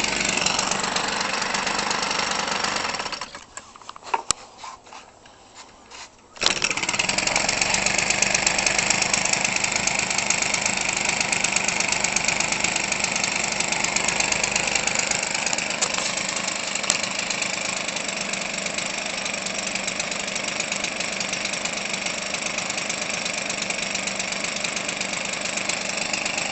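Converted Weed Eater Featherlite 25cc two-stroke engine running with a propeller through its stock muffler, a quiet exhaust note. It cuts out about three seconds in, leaving a few faint clicks, then comes back abruptly some three seconds later and runs steadily.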